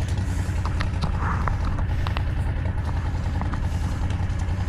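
SCL850 skid steer's engine running steadily, with a few light clicks and rattles in the first couple of seconds.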